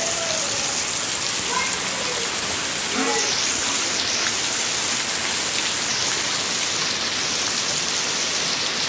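Heavy rain falling steadily, a dense even hiss of rain on hard surfaces. A faint voice is heard briefly about three seconds in.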